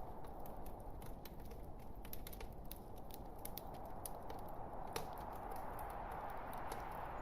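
Wood fire burning in a fireplace: crackling, with irregular small pops over a steady low hiss of flame, and one sharper pop about five seconds in.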